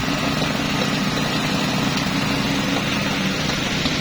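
Heavy construction machinery running steadily: the even, unchanging engine drone of concrete-pour equipment such as a mixer truck or concrete pump.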